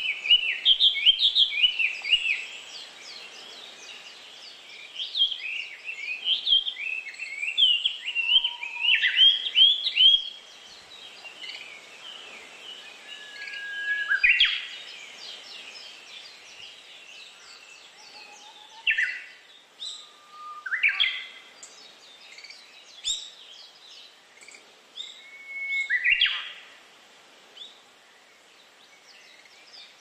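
Several songbirds singing and calling. There is a dense run of quick chirps for about the first ten seconds, then scattered single calls and short trills, all over a faint steady hiss.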